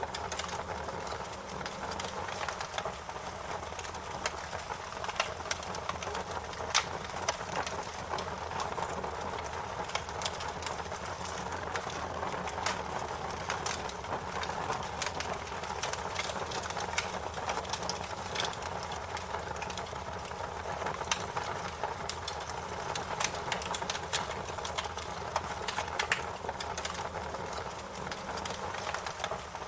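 Wood fire crackling and popping: irregular sharp snaps over a steady low rush of burning.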